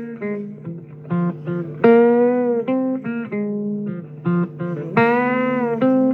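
Blues played live on guitar: short plucked notes, with two long held, wavering notes about two and five seconds in.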